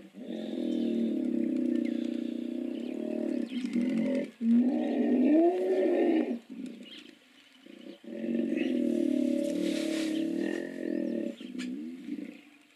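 Hippopotamus calls: three long, low, drawn-out calls, the second gliding up and back down in pitch.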